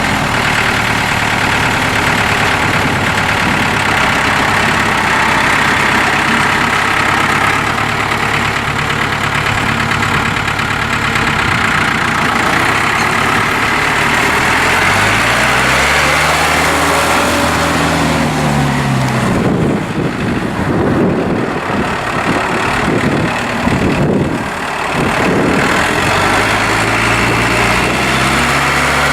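Four-cylinder Iveco diesel engine of a 2007 New Holland TT75A tractor running at a steady idle, revved up and back down about halfway through, running unevenly for several seconds after that, and rising again near the end.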